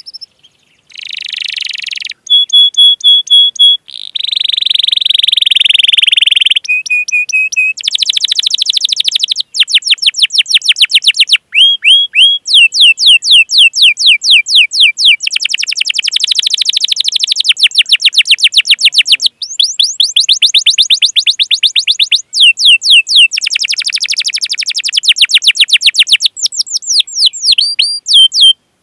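Domestic canary singing a long song of fast repeated chirps and rolling trills, changing phrase every second or two with brief gaps between some phrases, and a buzzy stretch about four seconds in.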